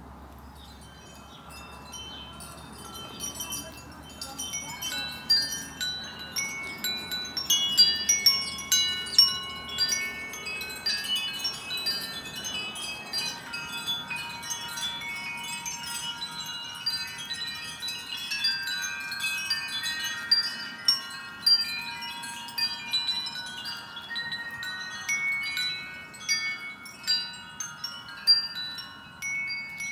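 Wind chime ringing, many overlapping struck tones sounding together, picking up a few seconds in and continuing busily.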